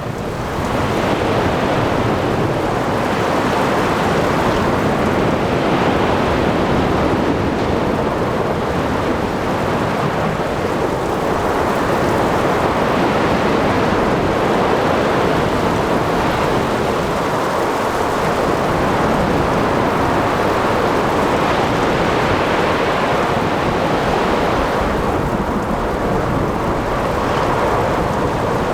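Ocean thunderstorm ambience: heavy rain, waves and wind blend into a dense, steady wash of noise, with a low rumble of thunder underneath.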